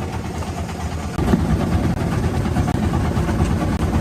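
Small fishing boat's engine running steadily, growing louder about a second in.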